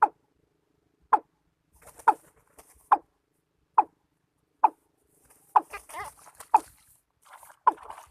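Watercock calling, short clucking notes repeated about once a second, nine in all. A faint hiss joins about halfway through, and the calls grow busier and overlap near the end.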